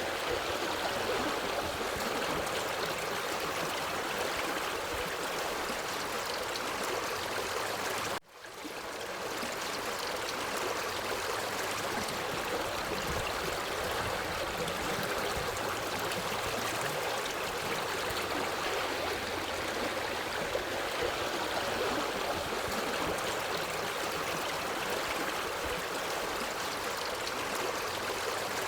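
Forest stream running over rocks, a steady rush of flowing water with some gurgling. About eight seconds in the sound cuts out for an instant and fades back up.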